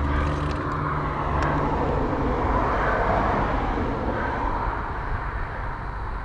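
Steady wind and road noise while riding a road bike, with a broad swell in the middle like a passing car's tyres.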